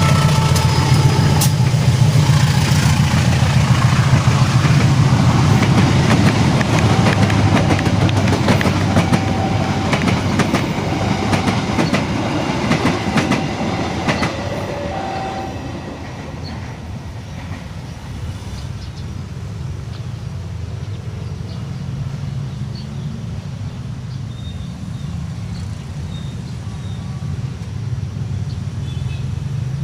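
A train passing close by, its wheels clattering over the rail joints with a heavy low rumble. The sound fades away after about halfway, leaving a softer low rumble.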